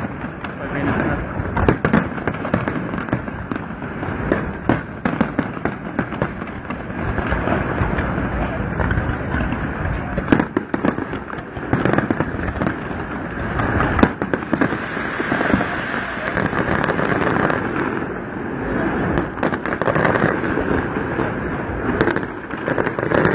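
Fireworks display: aerial shells bursting one after another, a long run of bangs and pops in quick succession, with crowd voices underneath.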